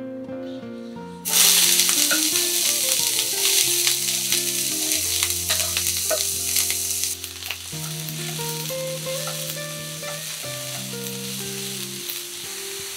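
Julienned carrots going into hot oil in a frying pan about a second in, sizzling loudly at once, then frying more quietly from about eight seconds on as they are stirred with chopsticks.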